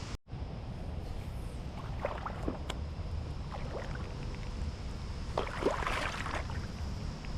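Steady rush of flowing creek water, with a brief dropout just after the start.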